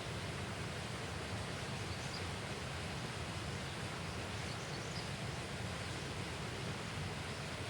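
Steady outdoor background noise, an even rush with no distinct events, with a few faint high chirps about two and five seconds in.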